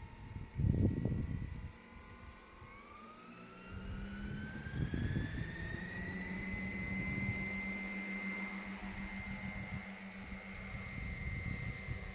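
700-size radio-controlled scale MD 500E helicopter spooling up. A whine rises over about three seconds and then holds steady, with a lower steady hum beneath it. Low rumbling gusts of wind on the microphone come in the first two seconds.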